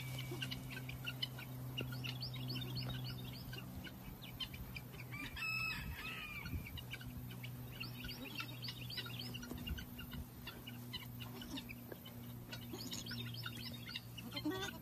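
Birds calling in quick clusters of short chirps, with one louder call about five and a half seconds in, over a steady low hum.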